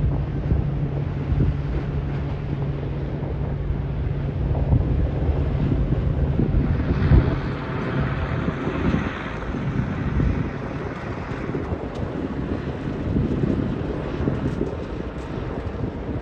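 Wind buffeting the microphone in a loud, rough rumble. A steady low hum lasts through the first half, and a hiss swells up and fades in the middle.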